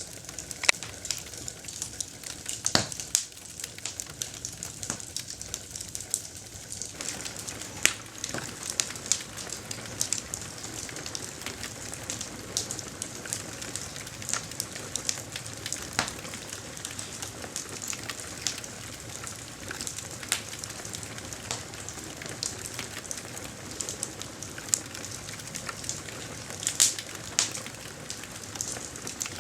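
Campfire burning, with irregular sharp pops and crackles of the wood over a steady hiss. A few pops stand out louder, and the hiss grows fuller about seven seconds in.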